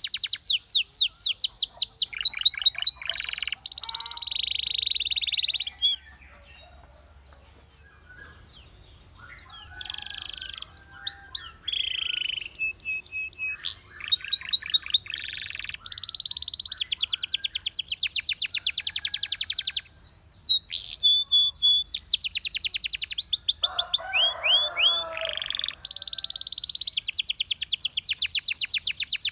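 Canary singing: long runs of rapid, evenly repeated high trill notes alternating with short chirps, glides and a harsher buzzy phrase. There is a pause of a few seconds about six seconds in.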